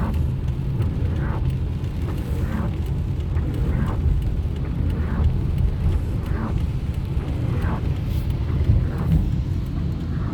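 Steady low rumble of a car driving in the rain, with a soft swish repeating about every second and a quarter.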